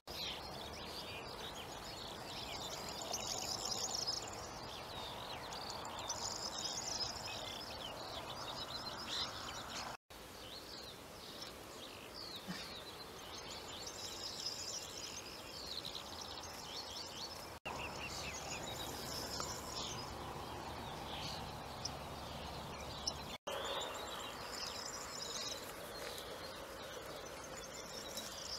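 Songbirds singing and chirping in repeated short phrases over steady background noise, with the sound cutting out for an instant three times.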